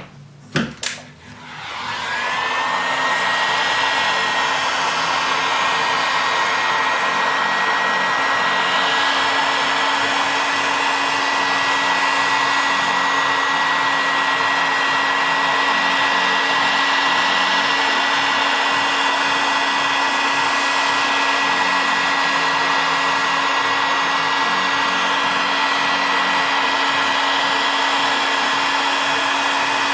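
Heat gun switched on with a couple of clicks about half a second in, then blowing steadily; its fan's whine rises as it spins up and holds on one pitch over a steady rush of air and a low hum. A hot-air blower like this is used to soften the adhesive holding the phone's glass.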